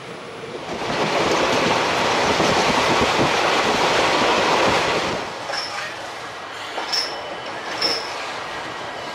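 Train running on the rails: a loud rush of wheel and track noise for about four seconds, then quieter running with three brief high-pitched wheel squeals.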